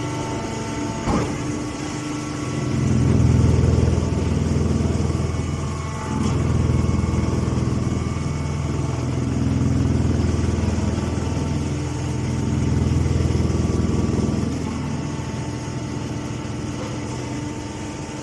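Tractor engine driving a straw baler, running steadily with its sound swelling and easing every few seconds as the load changes. A sharp click comes about a second in.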